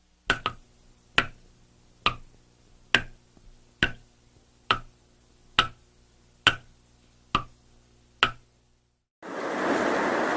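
A run of about ten sharp, evenly spaced clicks, a little under one a second, over a faint steady hum. After a brief silence near the end, a loud steady rushing noise cuts in.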